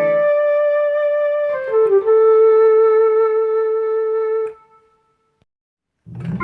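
GEM WX2 keyboard playing a single-line melody voice: one held note, a quick run of notes about a second and a half in, then a lower held note that stops at about four and a half seconds. After a short silence, a fuller chord-like sound starts near the end.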